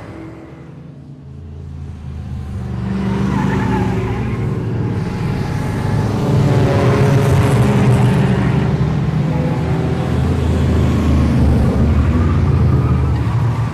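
A car engine running, building up over the first few seconds and then holding steady and loud.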